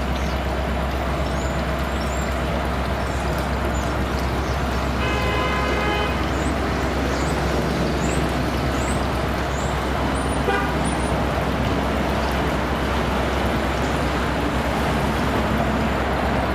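Steady vehicle noise with a short horn toot lasting about a second, about five seconds in.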